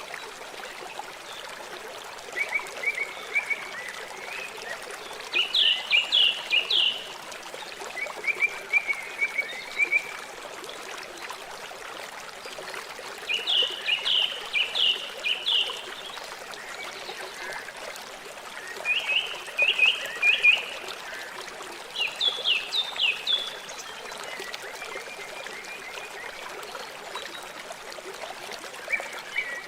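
River water flowing steadily, with a calling animal giving short rapid series of chirps, about four to six notes at a time, every few seconds.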